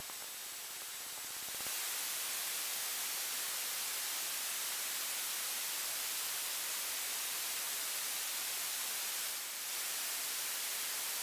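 Steady radio static hiss on the aircraft's radio and intercom line between transmissions, with no engine sound and no voices. It opens with a click, grows a little louder about two seconds in and dips briefly near the end.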